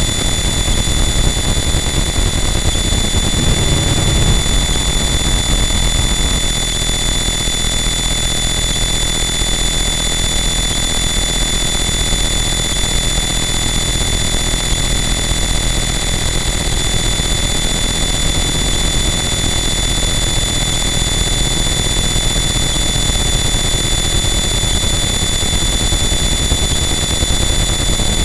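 Harsh noise wall: a loud, unchanging wall of dense distorted static with steady high whining tones running through it.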